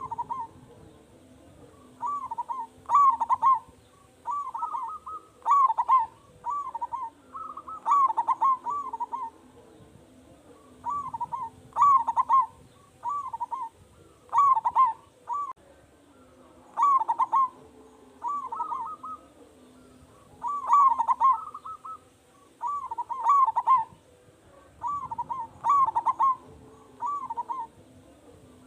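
Zebra dove (perkutut) in full song: short phrases of several rolling coos, repeated every second or two with brief pauses between.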